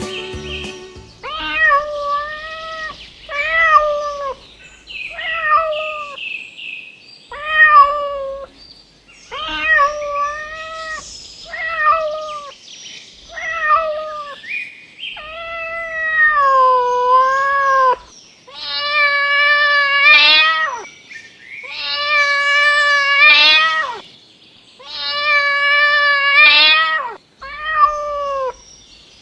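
Domestic cat meowing over and over: a string of short meows, then several long, drawn-out, wavering meows in the second half.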